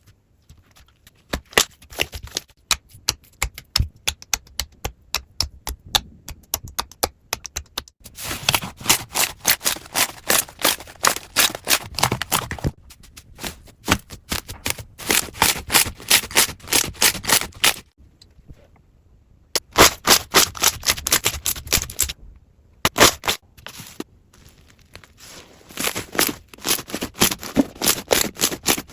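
Slime being squeezed and worked, giving rapid trains of sharp clicks and crackles in several stretches with short breaks between them.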